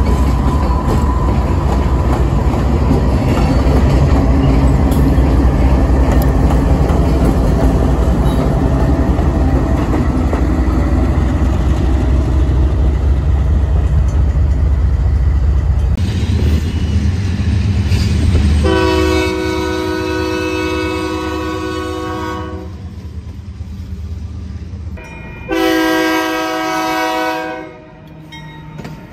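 Union Pacific diesel locomotives passing close, with a steady heavy engine rumble and wheels clicking over the rail joints. After a cut, a locomotive sounds its multi-chime air horn twice, a long blast and then a shorter one, as it approaches a grade crossing.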